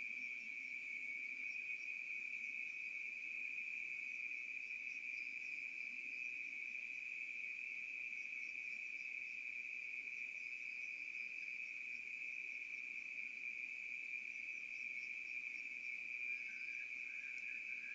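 Steady trilling of night insects such as crickets, picked up by a CCTV camera's microphone, with fainter scattered chirps above it. Near the end a second, lower chirping joins in.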